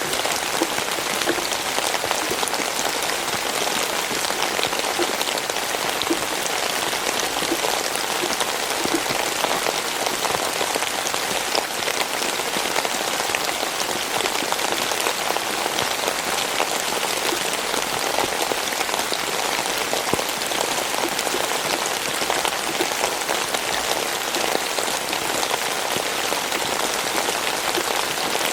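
Steady rain falling, a dense even patter of drops striking a surface.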